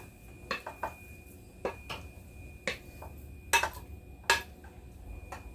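A utensil knocking and clicking against a stainless steel baking pan while moist stuffing is spread into it: about eight separate light knocks, the two loudest past the middle.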